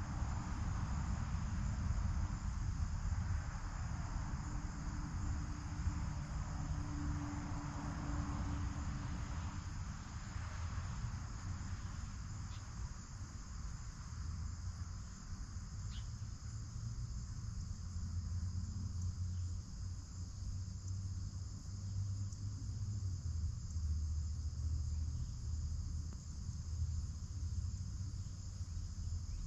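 Steady high-pitched trilling of a late-summer insect chorus, crickets, over a low outdoor rumble.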